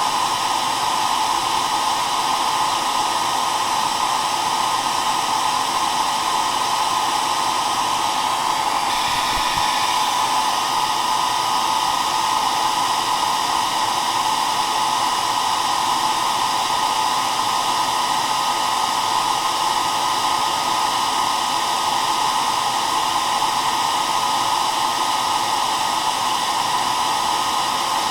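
Hair dryer running steadily: an even, unbroken blowing hiss with a strong hum in the middle range.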